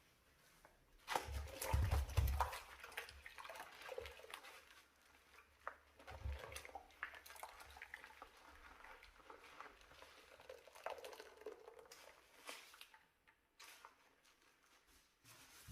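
Wet scrubbing sounds from cleaning a dirty stove: irregular scrubbing strokes and squishes with light knocks, loudest about a second in and fainter after.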